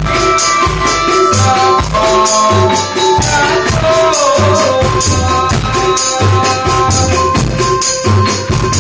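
Percussion ensemble playing a steady beat of drum hits and tambourine jingles under a sustained melody line that glides between notes in places.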